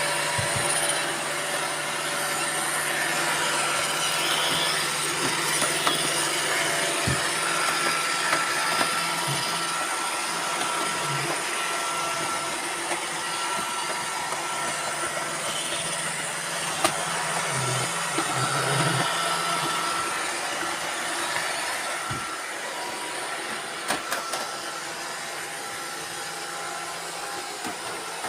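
Several robot vacuum cleaners running at once: a steady whir of motors and brushes with a thin high whine, broken by occasional clicks and knocks.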